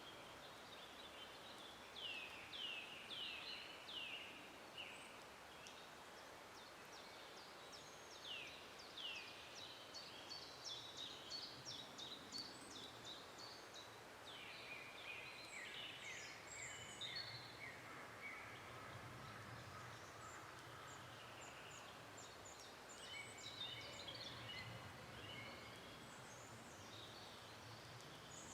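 Songbirds singing in a forest: several phrases of quick, high, downward-sweeping notes and trills, with pauses between them, over a faint steady hiss of the surroundings.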